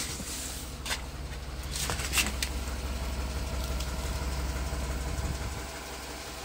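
A vehicle engine idling: a low steady rumble, with a couple of light clicks about one and two seconds in.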